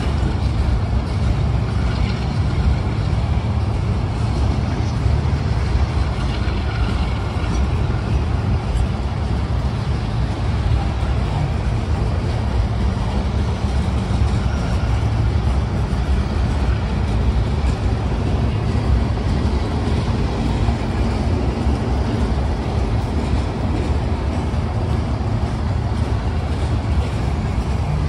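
Open hopper cars of a CSX limestone freight train rolling past, steel wheels on rail making a steady low rumble.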